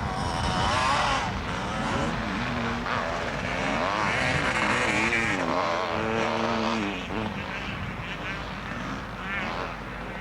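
Motocross motorcycle engines revving, their pitch repeatedly rising and falling as the riders work through the gears, over a steady background of engine noise.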